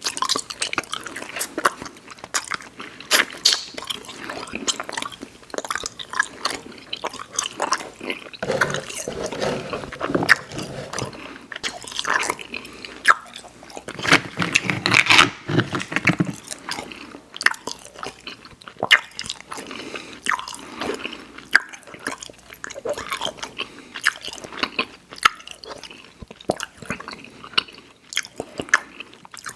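A person chewing Airheads Xtremes sour chewy candy, with many quick, uneven mouth clicks and smacks. The chewing grows fuller and heavier twice, about nine and fifteen seconds in.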